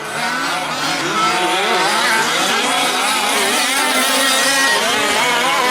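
Several 1/5-scale gas RC trucks' small two-stroke engines racing together, their overlapping pitches rising and falling as they rev up and back off around the track.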